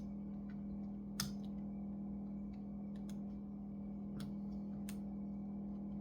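Scattered small clicks and taps of hands and a tool working on an opened laptop: a sharp one about a second in and two more near the end, over a steady low hum.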